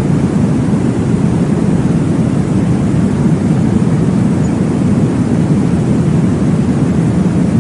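Steady, deep whooshing white noise for baby sleep, heaviest in the low range and without breaks or changes.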